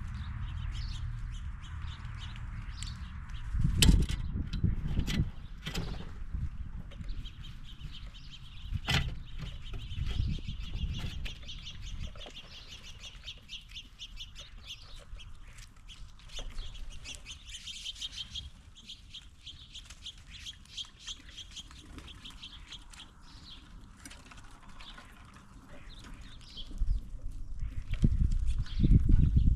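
Animals feeding on a wooden peanut table: sharp knocks and taps on the wood, and a long run of rapid, high chirping notes from a bird. A low rumble swells near the end.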